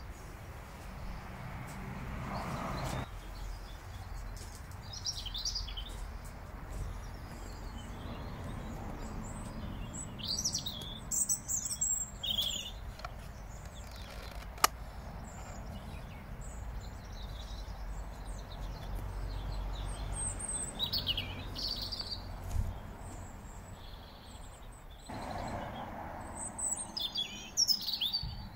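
Small birds chirping and singing on and off, over a low steady background rumble, with one sharp click about halfway through.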